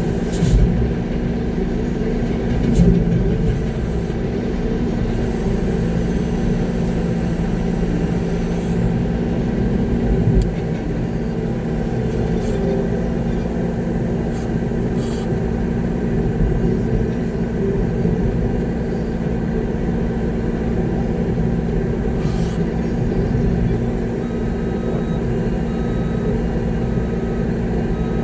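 Concrete mixer truck's diesel engine running steadily, heard from inside the cab, with a few brief knocks.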